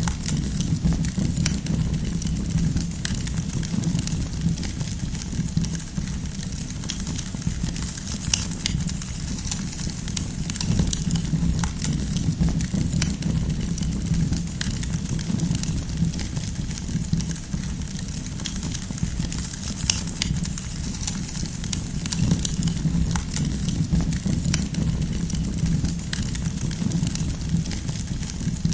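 Campfire of burning firewood crackling, with frequent sharp pops and snaps over a steady low rumble of the flames.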